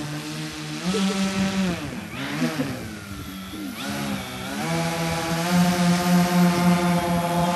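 Twin brushless outrunner electric motors and propellers of an RC airplane whining as the throttle is opened and eased. The pitch rises about a second in and drops again, stays low through the middle, then climbs and is held high for a couple of seconds before falling near the end.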